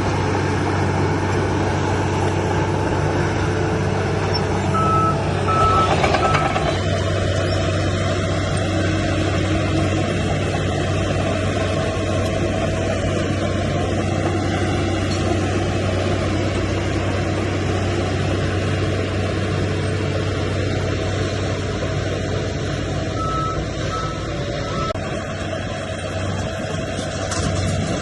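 Heavy earthmoving machinery's diesel engine running steadily with a deep hum, and a reversing alarm beeping three times about five seconds in and three times again near the end.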